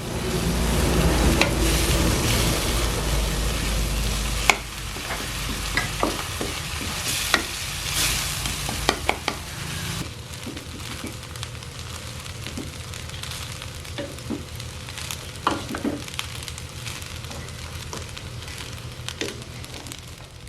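Food sizzling as it is stir-fried in a pan, with a spatula clicking and scraping against the pan at irregular moments. The sizzle is loudest in the first few seconds and dies down after that.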